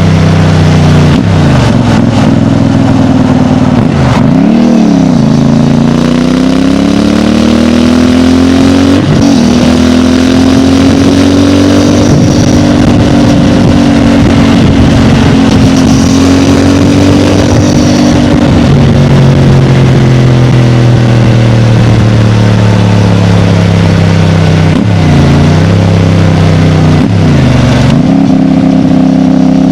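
CFMOTO 450MT motorcycle's parallel-twin engine running through its stock exhaust and being revved. There are several quick throttle blips, and one longer climb in revs that holds high for several seconds before dropping back.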